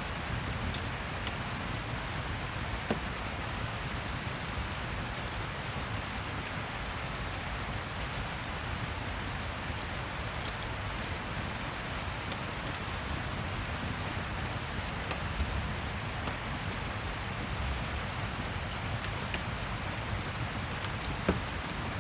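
Steady rain falling, with a few sharp pops and crackles from a wood fire.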